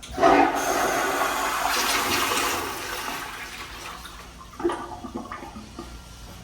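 A restroom toilet flushing: a sudden loud rush of water that starts at once, holds for a couple of seconds, then dies away. A sharp knock about four and a half seconds in is followed by a few lighter clicks.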